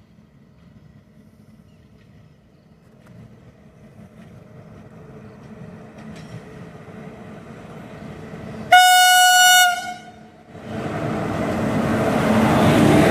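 Train approaching with a low rumble that grows louder, then one locomotive horn blast of about a second on a single steady pitch. A moment after the horn, the train passes close by and its rolling noise grows loud.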